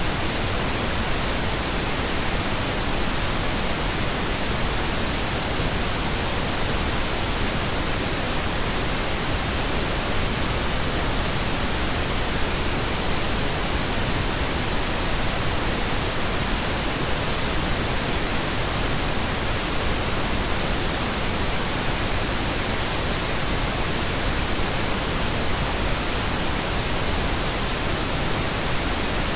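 Steady pink noise: an even, unchanging hiss spread across the whole range from low to high, with no events or changes.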